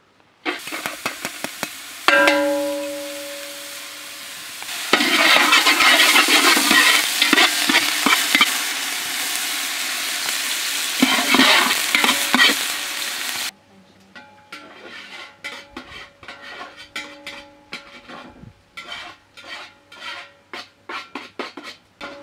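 Chopped onion frying in hot oil in a large steel pot and being stirred, with a loud sizzle. About two seconds in, a metal knock rings against the pot. The sizzle cuts off suddenly about 13 seconds in, and irregular clicks and taps follow.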